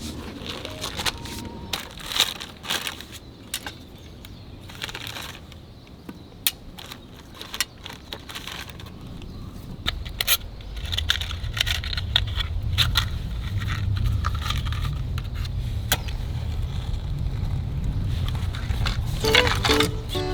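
Irregular crackling and snapping of a wood campfire, mixed with sharp clicks; a low steady rumble sets in about halfway through.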